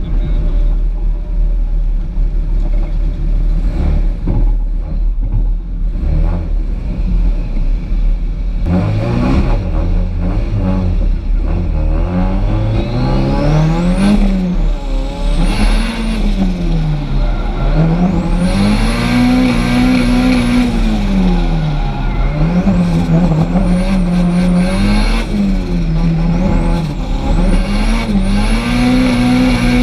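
Drift car's engine running at low revs for the first several seconds, then revving up and down over and over, the pitch rising and falling every second or two. A high whine rises along with the harder revs.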